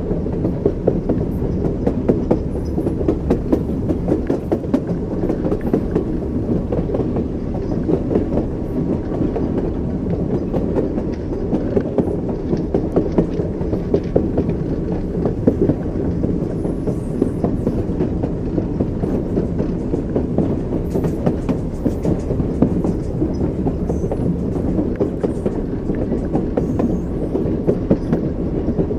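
Train wheels clacking over rail joints as the train runs along, over a steady low rumble.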